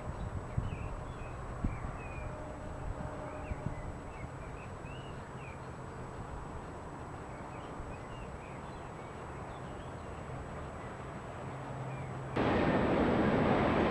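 Low, steady hum of trains in a large railway yard heard from afar, with small birds chirping over it. About twelve seconds in the sound jumps suddenly to the loud rushing of a train running through.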